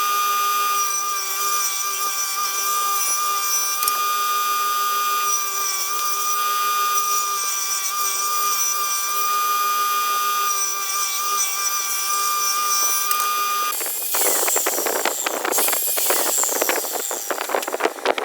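Electric power tool running on pine wood, its motor giving a steady high whine. About 14 seconds in the sound turns to a rough, crackly rasping as the tool works the wood.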